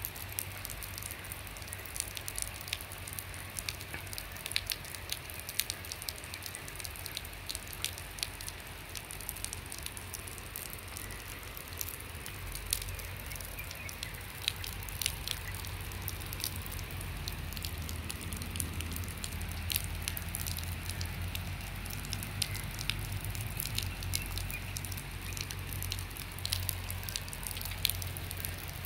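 Rain falling steadily on a river, a dense hiss broken by many sharp drop ticks. A low rumble joins it about halfway through.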